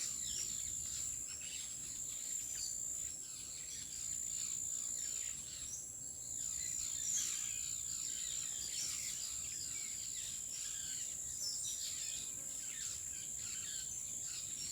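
Forest ambience: a steady high-pitched insect drone with small birds chirping over it, short calls repeated throughout.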